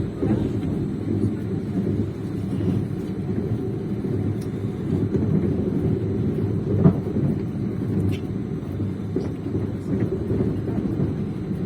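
Train running along the track: a steady low rumble of wheels on the rails, with one sharper knock about seven seconds in.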